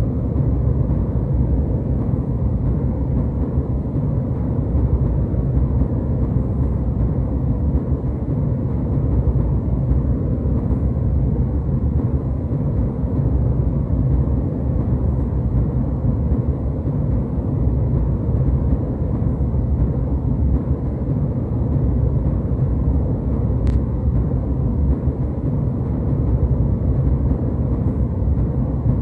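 Jet airliner cabin noise in flight: a steady low rumble of engines and airflow, heaviest in the bass. One faint click late on.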